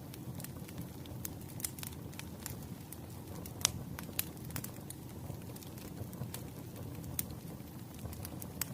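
Wood fire burning: a steady low rumble of flames with scattered sharp crackles and pops from the burning firewood, the loudest pop about three and a half seconds in.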